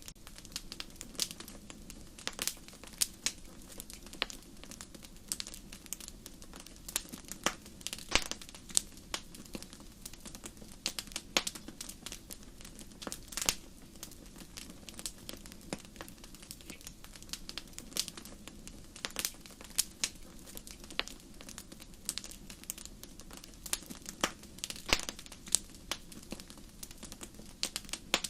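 Wood fire crackling in a fireplace: irregular sharp pops and snaps, several a second, over a steady low hiss of the flames.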